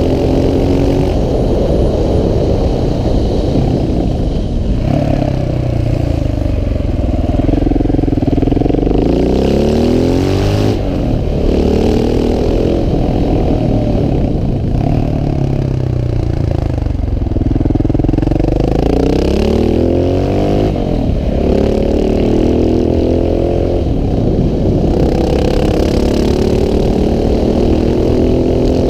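KTM 690 SMC R's single-cylinder engine pulling hard and easing off again and again, its pitch rising and falling several times as the bike climbs through a run of bends.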